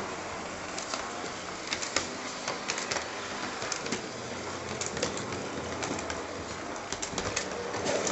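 Birds chirping and a dove cooing over a steady background hiss.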